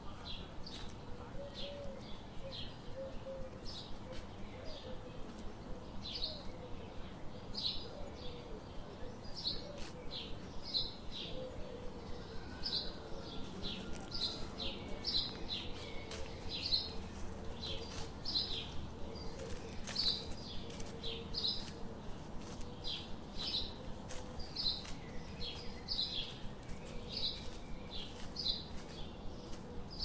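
Small birds chirping over and over, short high chirps coming about once or twice a second.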